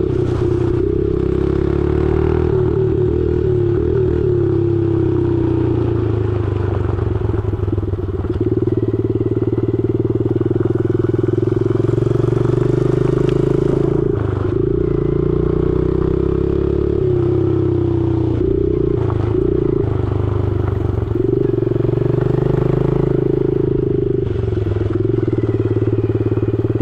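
Honda 70cc dirt bike's single-cylinder four-stroke engine running under throttle, its pitch rising and falling, with several short dips in the engine note along the way.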